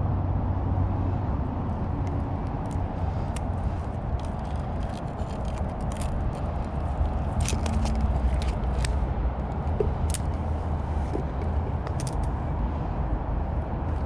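Steady low outdoor rumble with scattered small clicks and taps, most of them about halfway through.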